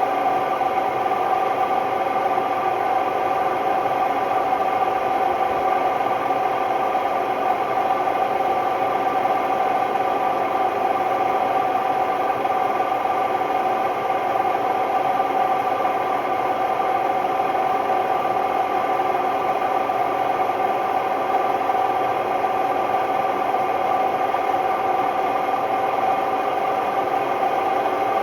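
Hotpoint Ultima WMD960 washing machine spinning at a steady speed, a loud, even whine and drone from the drum: the noise of bad drum bearings.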